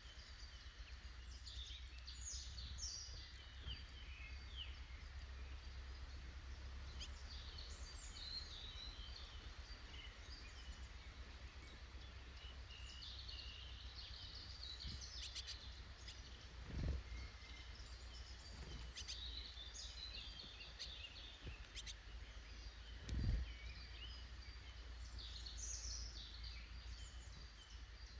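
Woodland songbirds singing and calling, many overlapping chirps and trills, over a steady low rumble. Two brief low thumps, one a little past the middle and a louder one later.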